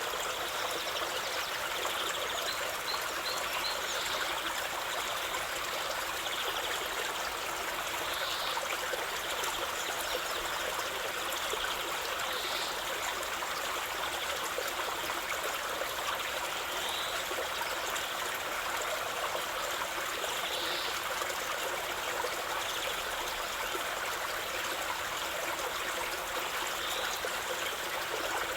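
A stream of water flowing and trickling steadily, an even rushing hiss that does not change.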